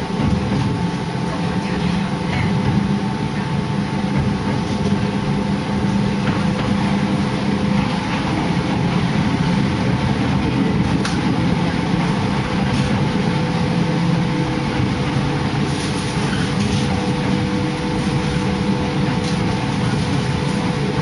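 Hakone Tozan Railway electric train running through a tunnel, heard from inside the car: a steady rumble of wheels on the rails under a steady electric motor hum, with a few faint clicks.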